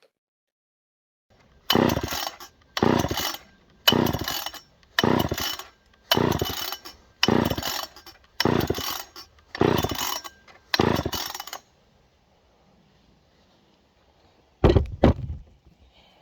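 Poulan 306A chainsaw being pull-started: nine quick, even pulls of the recoil starter crank the engine without it catching, an old saw that has sat unused with its fuel and oil drained. Two short knocks follow near the end.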